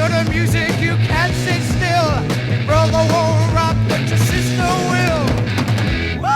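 Hard rock band recording playing an instrumental passage: a lead line bends and wavers over steady bass and drums. The bass and drums drop out at the very end.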